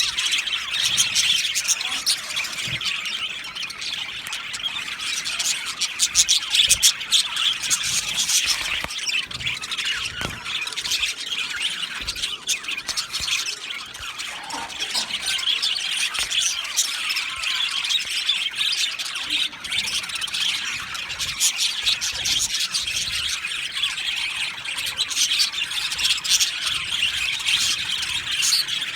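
A flock of budgerigars chattering continuously, a dense mix of chirps, warbles and squawks from many birds at once.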